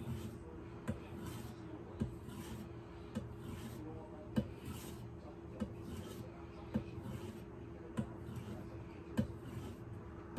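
Kitchen knife being stropped on a leather strop loaded with stropping compound, to take the micro burrs off the edge. The light, even strokes of the blade rub over the leather, with a small sharp tick about every 1.2 seconds as each pass ends.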